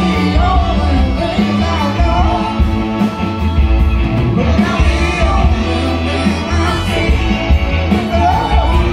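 Live band playing a rhythm-and-blues song, with bass, drums and Hammond organ under a woman singing lead.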